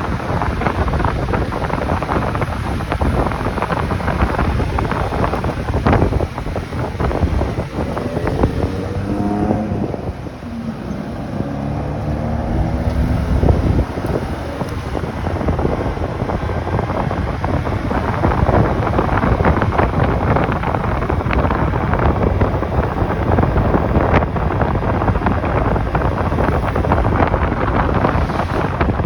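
Wind buffeting the microphone during a motorcycle ride, a loud, steady rush. About nine seconds in the wind drops and an engine note comes through, falling in pitch as the bike slows, before the wind rises again.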